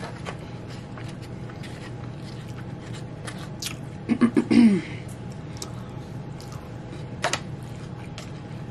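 Close-up eating sounds of a Chipotle burrito bowl: chewing with small clicks of the mouth and fork, over a steady low room hum. About four seconds in, a short voiced hum from the eater is the loudest sound.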